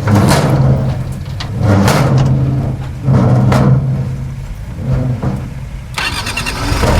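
Heavy diesel engine of earthmoving machinery working under load, its revs rising and falling every second or two, with metal clanks and scraping over it. Near the end a denser rattling takes over.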